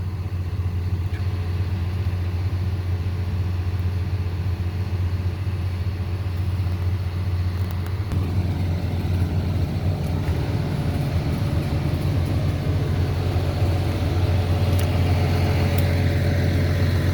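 Diesel engine of a John Deere 848H skidder running steadily with a deep hum. From about halfway through it grows somewhat louder and fuller as the machine works.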